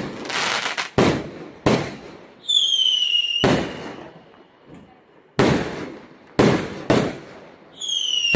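Fireworks going off: about seven sharp bangs of aerial shells bursting at uneven intervals. A high whistle of a whistling firework, falling slightly in pitch, comes just before the bang about three and a half seconds in. Another whistle starts near the end.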